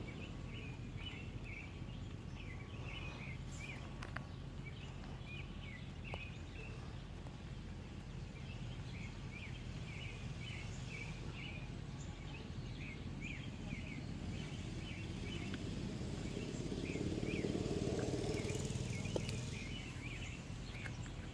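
Small birds chirping again and again over a steady low outdoor background noise. A broad low rumble swells and fades near the end.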